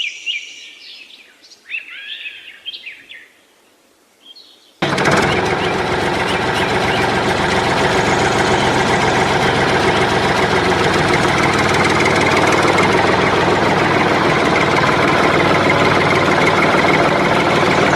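Birds chirping for the first few seconds, then, about five seconds in, an engine running steadily comes in abruptly at full level.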